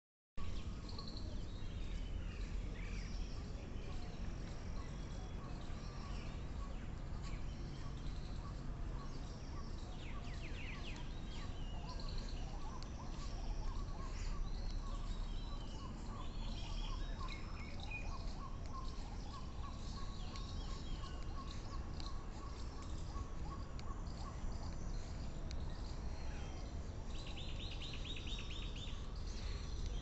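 Birds chirping and calling over a steady low rumble. The bird calls are short and scattered, with a run of repeated notes in the middle and a rapid buzzy trill near the end.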